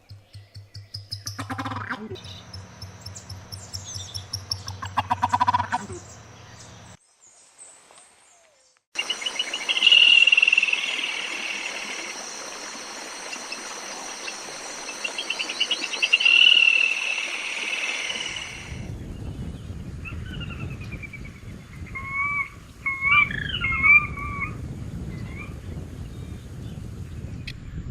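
Calls and songs of several different wild birds in a run of separately recorded clips that change abruptly. First come quickly repeated notes, then, after a short near-silent gap, trilled phrases. Near the end there are sliding, whistled calls.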